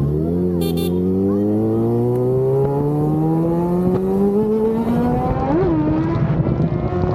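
An engine accelerating: its pitch climbs steadily for about five seconds, gives a brief jump up and back, then holds at a steady higher speed.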